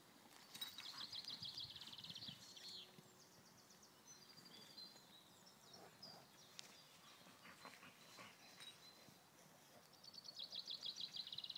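Faint outdoor quiet with a small bird singing a rapid high trill, about a second in and again near the end, and a few short chirps between.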